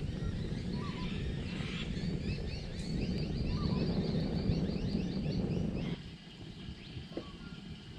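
Birds calling: one repeats a short rising call about once a second, while another gives a rapid run of high chirps in the middle. Under them runs a low rumbling noise that cuts off abruptly about six seconds in.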